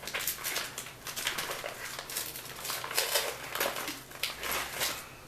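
Packaging crinkling and rustling with light clicks and clatter as a new set of brake pads is unpacked from its box, irregular and continuous, stopping near the end.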